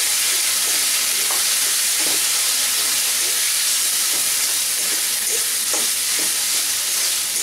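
Spice masala frying in mustard oil in a metal kadai: a steady sizzle, with a metal spatula stirring and scraping it around the pan in a few strokes.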